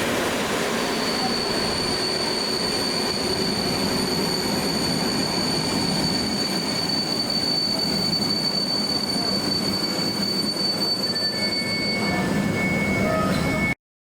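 Train moving through a station, its wheels giving a high, steady squeal over the rolling rumble. Near the end a second, lower squeal joins in, then the sound cuts off suddenly.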